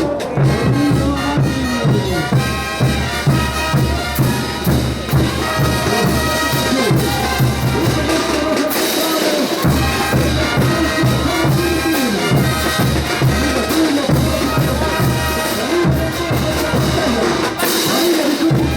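Brass band playing ch'uta dance music: massed brass carrying the melody over a steady bass drum and percussion beat. The drums drop out briefly twice.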